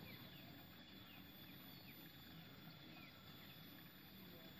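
Near silence: a faint, low steady outdoor noise with faint short falling chirps from small birds, about one a second.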